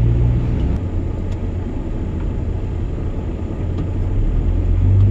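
Vehicle driving, with a steady low engine drone and road rumble. The engine's hum drops away about a second in and comes back strongly near the end.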